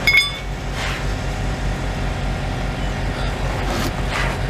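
A large vehicle engine idles steadily with a low, even pulsing rumble. A single metallic clink rings out right at the start.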